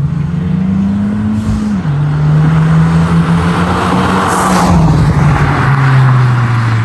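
Exhaust note of a 10th-gen Honda Civic Si's turbocharged 1.5-litre four-cylinder through an Invidia Gemini cat-back exhaust: a loud steady drone whose pitch drops about two seconds in and again about five seconds in.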